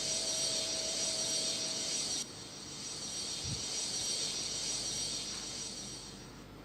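Airbus A330 airliner noise during takeoff: a steady airflow and engine hiss with a faint whine. About two seconds in, the whine stops and the higher part of the hiss drops off suddenly. There is a single low thump about three and a half seconds in, and the hiss fades further near the end.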